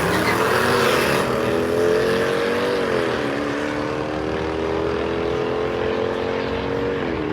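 Drag-race vehicles accelerating hard down the strip. The engine note climbs, then drops sharply at gear shifts about one, three and seven seconds in.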